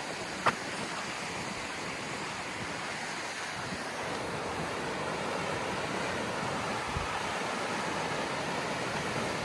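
Steady rushing roar of Goðafoss waterfall, growing a little louder about four seconds in. There is one sharp click about half a second in.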